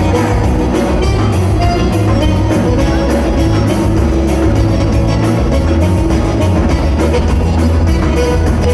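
Gaúcho band music played live: a drum kit keeps a quick, steady beat under guitar.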